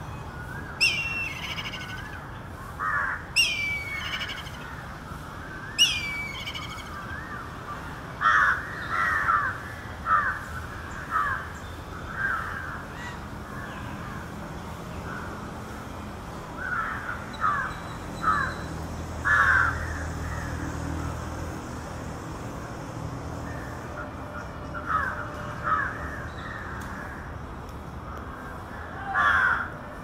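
A black kite gives three descending whistled calls in the first six seconds, then crows caw over and over, singly and in quick clusters, through the rest.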